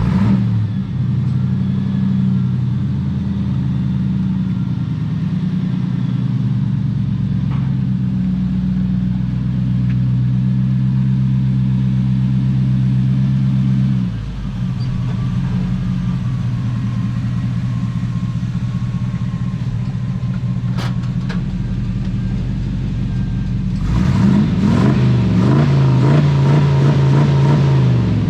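A motor vehicle engine running steadily, its note changing about 14 seconds in, then revving up louder and rougher for the last few seconds.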